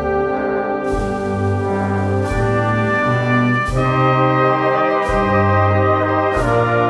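Brass band playing a slow Holy Week processional march: held brass chords over drum strokes about every second and a half.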